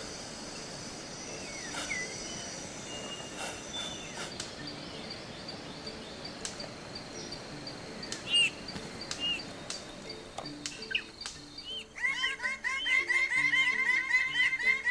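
Scattered short bird chirps over a faint steady background hiss. About twelve seconds in, a louder piece of music starts, with a regular run of chirpy arched notes over a stepping bass line.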